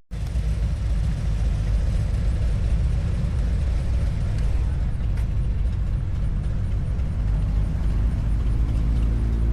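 A car engine idling with a steady low rumble and a faint, even ticking.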